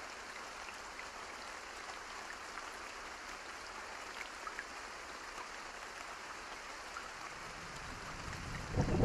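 Steady soft rain with scattered small ticks and pops. Near the end a low rumble of thunder swells in and turns loud.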